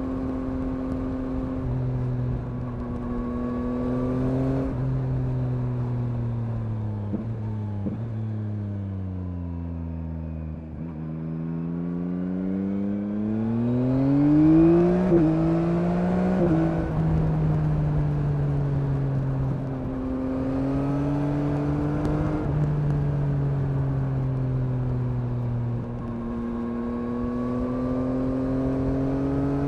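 2021 Yamaha MT-09's 890 cc CP3 inline-three engine heard from the rider's seat. It cruises, then the revs fall away for several seconds as the bike slows. It pulls hard with rising revs and two quick breaks in pitch, quickshifter upshifts, about 15 and 16 seconds in, then cruises steadily again.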